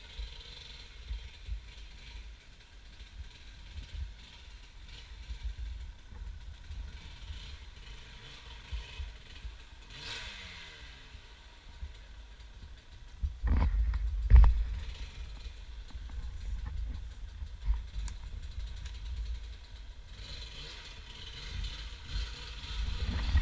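Steady mechanical clicking and rattling, with wind rumbling on the microphone. Two louder knocks come close together about two-thirds of the way through.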